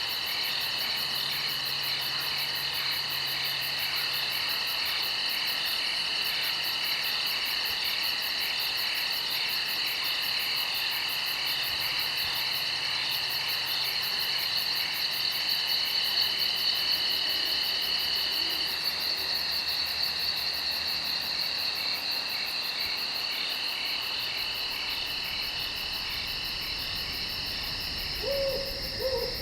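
Steady chorus of insects trilling at several pitches at once, with fast pulsing up high. Near the end, a couple of short, lower calls break in.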